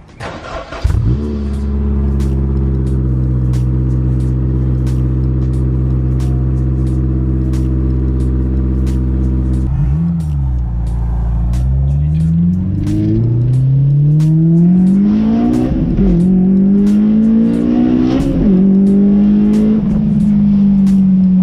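Honda S2000's 2.2-litre F22C1 four-cylinder engine cranking briefly and catching about a second in, then idling steadily. About halfway through it pulls away, revs climbing through the gears with two upshifts, then holding steady near the end.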